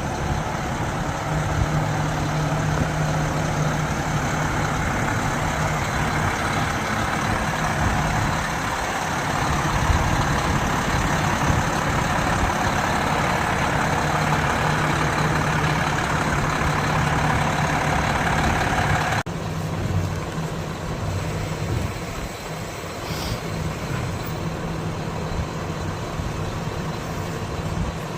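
Diesel engine of a Hyundai concrete pump truck running steadily; about two-thirds of the way through, the sound drops abruptly to a lower level and carries on.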